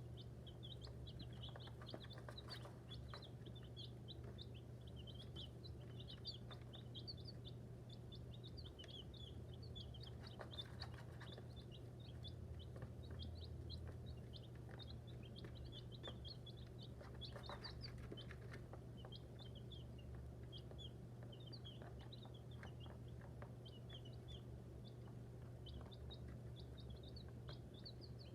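A group of chicks peeping without a break, many short high chirps overlapping, with faint scratching and pecking in wood shavings.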